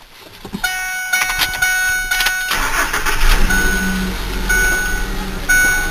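2008 Ford F-150's 4.2-litre V6 being started: the starter cranks for about two seconds, then the engine catches and settles into an idle through the stock exhaust. A warning chime in the truck sounds about once a second over the idle.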